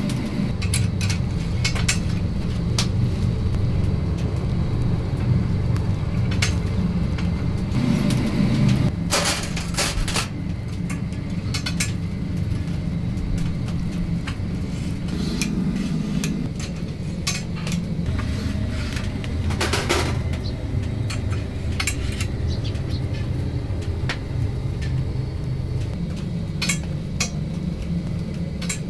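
Kitchen work: metal pans and utensils clinking and clattering over a steady low rumble, with a few louder clatters near the middle.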